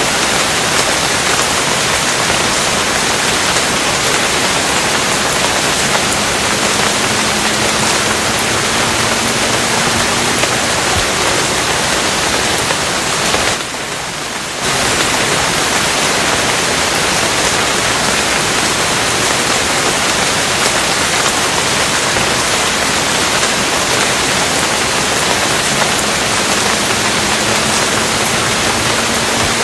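Steady, dense rain noise, even across all pitches, that drops in level for about a second midway.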